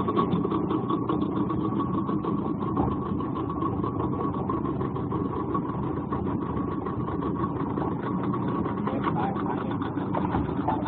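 An engine running steadily at an even speed close by, with a fast flutter.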